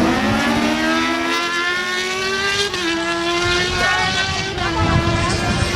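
Inline-four sport-bike engines of a Suzuki GSX-R1000 and a Yamaha R1 at full throttle on a drag strip, revs climbing and then dropping sharply at an upshift about two and a half seconds in.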